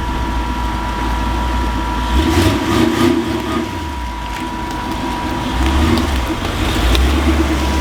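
Engine of a 1978 Jeep truck running after years of sitting, its speed rising and falling a couple of times, with a thin steady high whine alongside.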